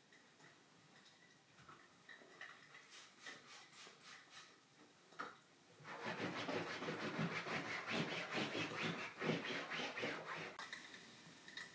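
A few faint clicks, then dense rustling and crinkling for about four seconds, as of something being handled, that stops suddenly near the end.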